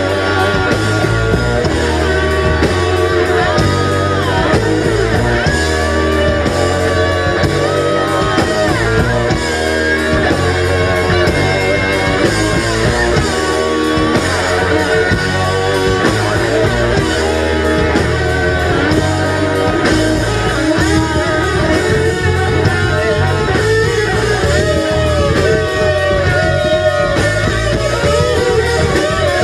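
A rock band playing live, loud and steady: electric guitar playing sustained, bending lead lines over bass and drums.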